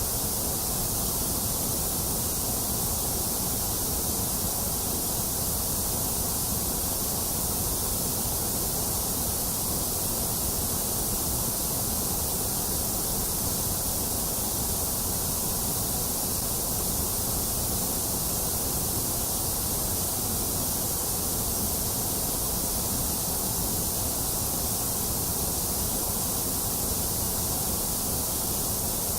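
Generated white noise: a steady, unchanging hiss with no events in it.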